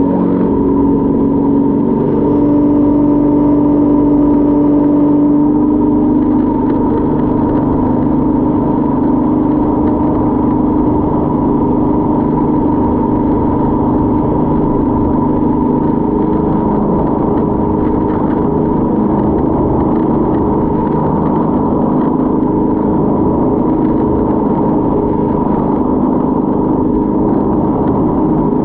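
Motorboat engine running steadily, a continuous loud drone with a few held tones and no change in speed.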